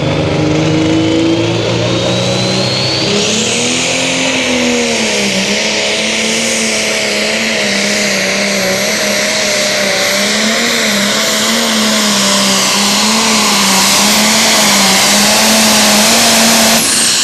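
John Deere super stock diesel pulling tractor under full power during a sled pull. The engine tone wavers as it pulls, and a high turbocharger whine climbs over the first few seconds and then holds. The whine cuts off suddenly near the end.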